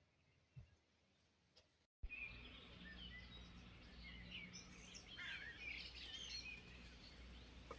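Near silence, then about two seconds in an abrupt cut to small birds chirping over steady low background noise.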